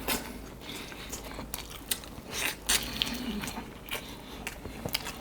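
Eating sounds: biting into and chewing wood-fired roast chicken, with scattered small crunches and clicks from the skin and meat.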